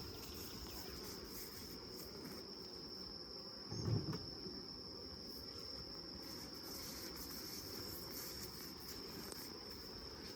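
A steady, high-pitched insect chorus runs throughout over a low background hum. There is one short low thump about four seconds in.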